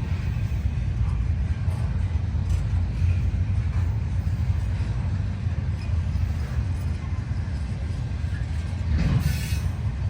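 Freight train cars rolling past with a steady low rumble and scattered faint clanks, and one louder clank about nine seconds in.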